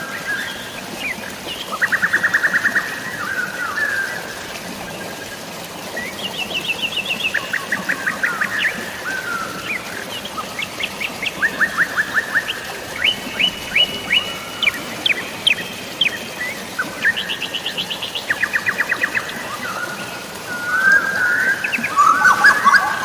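Songbirds singing in short, rapid trills, a new phrase every second or two, with a busier run of calls near the end. Under them runs a steady hiss of falling rain and flowing water.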